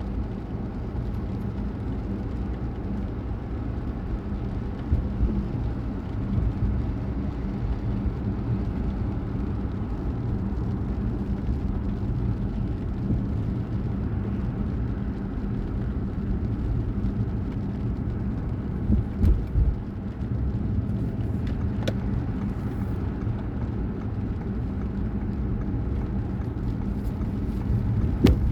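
A car driving: steady low engine and road noise, with a few brief thumps along the way.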